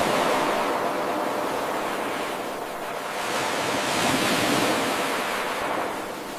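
Ocean surf: a wave washing in as a steady rush of noise, swelling to its loudest about four seconds in and easing off near the end, as part of an evenly repeating wave loop.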